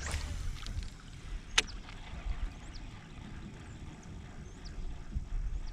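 Handling noises aboard a fishing kayak: a brief swish at the start, then a single sharp click or knock about a second and a half in, over a steady low rumble.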